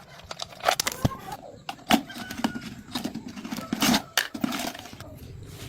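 Irregular metallic clinks, taps and knocks of tools and metal parts being handled, a dozen or so sharp strikes with a few that ring briefly.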